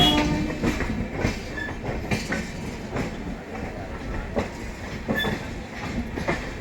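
A passenger express train running at speed, heard from on board: a steady rumble with the clickety-clack of wheels over rail joints. A brief pitched sound right at the start.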